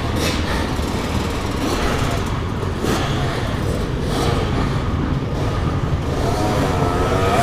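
Motocross dirt bike engine running under a steady rumble of wind and noise, with the revs rising and falling again near the end.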